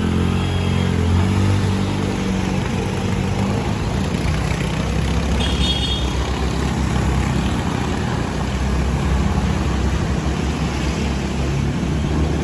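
A motor vehicle's engine running steadily, with a brief high tone about five and a half seconds in.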